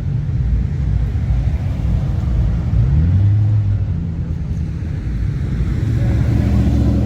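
Engines of cruising show cars running as they roll past slowly. One engine's pitch rises as it accelerates about three seconds in.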